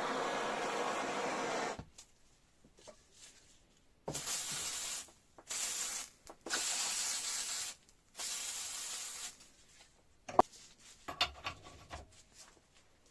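A steady running noise cuts off about two seconds in. Then come four short hissing spray bursts, each about a second long, and a few light clicks and knocks near the end.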